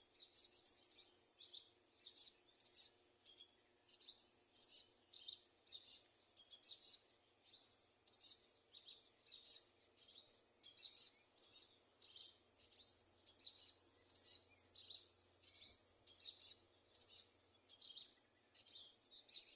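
Small birds chirping in quick, high-pitched calls, several a second and overlapping, with no pause.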